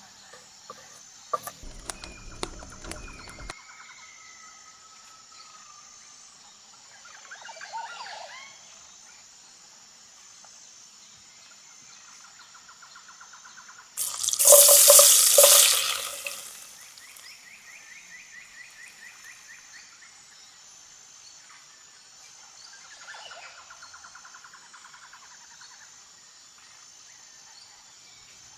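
Jungle ambience: a steady high insect drone with short bird and insect trills. Around the middle, water pours for about two seconds into a cooking pot, the loudest sound.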